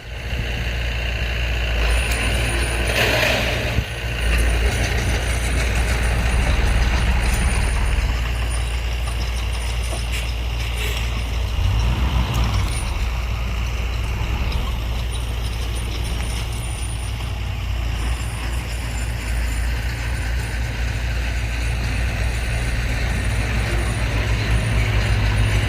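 Diesel earthmoving machinery running steadily with a constant low engine rumble, with a brief hiss about three seconds in.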